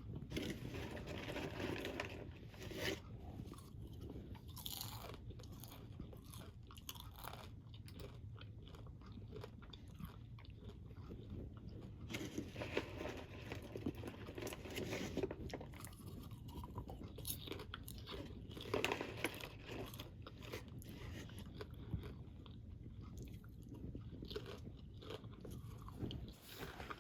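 A crunchy snack being chewed: irregular bursts of crunching bites throughout, over a steady low rumble.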